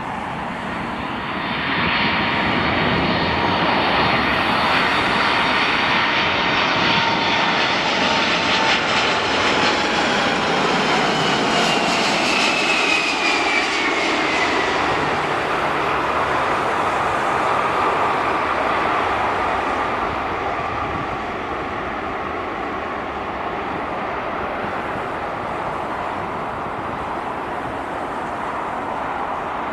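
Jet airliner passing close by: its engine noise builds about two seconds in, and whining tones from the engines drop in pitch as it goes past near the middle, after which the noise eases off a little.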